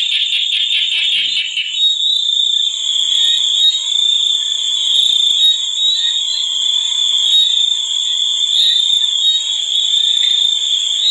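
A night chorus of frogs and insects: a steady high-pitched drone, with rapid pulsing calls over it for about the first two seconds.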